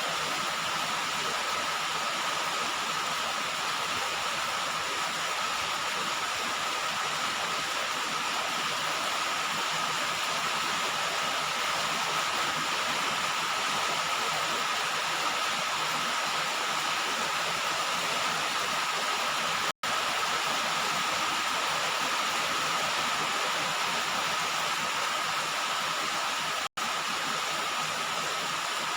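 Steady rain falling on a roof, an even hiss with no single drops standing out. The sound cuts out for an instant twice in the latter part.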